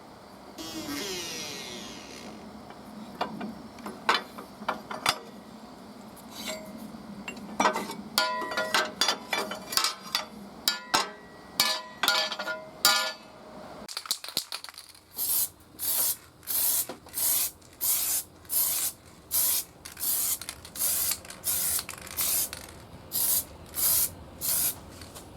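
Metal clinking and knocking as tools and a crank handle are worked on a boat engine, with some ringing metal tones. Then come about sixteen short hisses in a steady rhythm, roughly one and a half a second.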